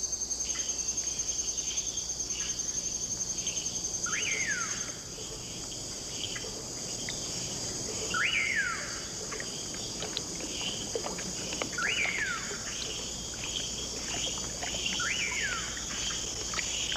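Rainforest ambience: insects trill steadily in a high band, pulsing at first and then smoother about five seconds in. Four times, about every four seconds, an animal gives a short call that swoops up and then down, with scattered short chirps in between.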